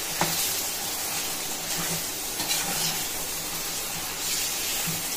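Pepper chicken sizzling in a stainless-steel kadai while a spatula stirs it, each stroke making a brief louder rasp over the steady frying.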